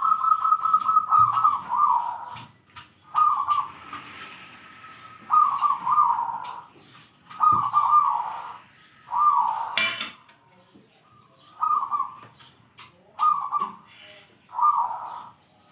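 Zebra dove (perkutut) cooing in repeated phrases, a long run of rapid notes followed by about seven shorter phrases every second or two. A sharp click is heard about ten seconds in.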